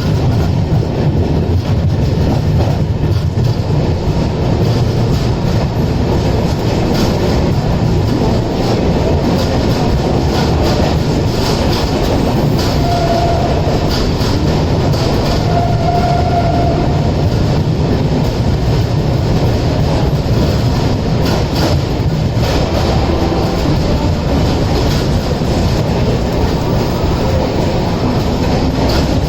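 Passenger train running at speed: steady rumble of the coaches with the clickety-clack of wheels over rail joints. Two short faint whines are heard about midway.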